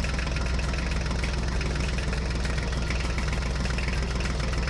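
Tractor engine running steadily, a fast, even low chugging.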